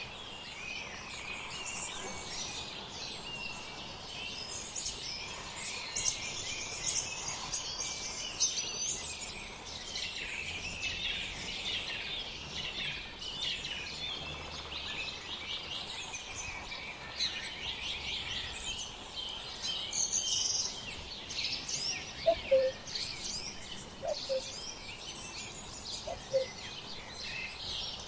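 Many small songbirds chirping and singing at once, a dense chorus of quick high chirps and trills, with a few short lower calls near the end.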